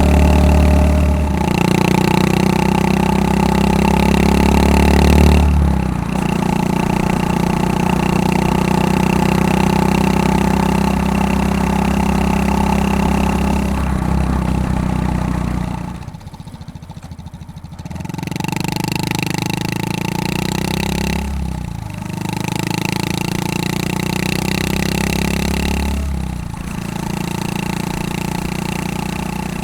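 Honda Super Cub 110 (JA59) with a Takegawa P-Shooter aftermarket muffler, its single-cylinder engine running under way. The exhaust note holds steady between gear changes and drops in pitch at each of about four shifts. It goes quieter for a couple of seconds past the middle with the throttle off, then picks up again.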